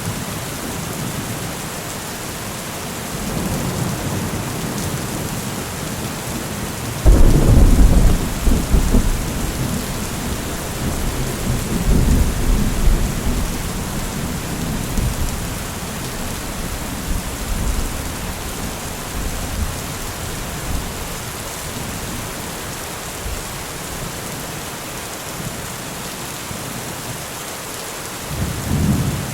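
Steady heavy rain with thunder. A loud low rumble starts suddenly about seven seconds in and rolls on for several seconds, another comes a few seconds later, and a softer one near the end.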